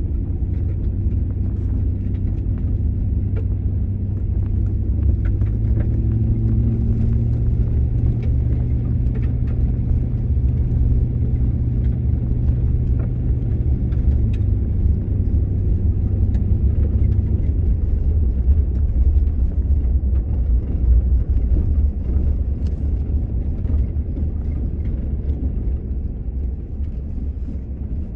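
Motor vehicle running on the road: a steady low engine and road rumble with a droning hum that shifts in pitch a few times.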